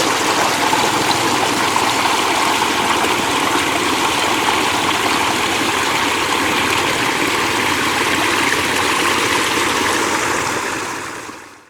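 Floodwater rushing steadily in a continuous, even stream; it fades out in the last second.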